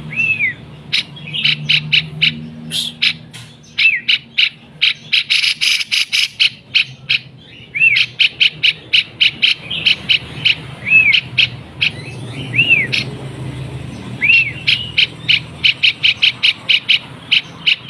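Male cucak jenggot (grey-cheeked bulbul) calling: rapid runs of sharp chipping notes, broken now and then by a single arched, down-slurred whistle.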